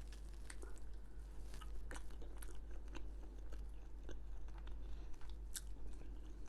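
A person chewing a mouthful of lamb rogan josh curry close to the microphone: a quiet, irregular run of small mouth clicks and smacks.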